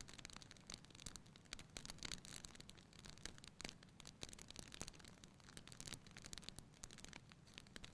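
Wood campfire crackling quietly: irregular small pops and snaps over a faint hiss.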